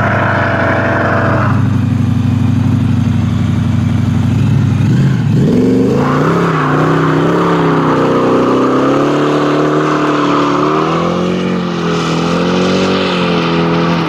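V8 muscle car engine running loud. The note holds steady for about five seconds, dips and climbs in pitch, then wavers up and down as the revs change, and stops abruptly at the end.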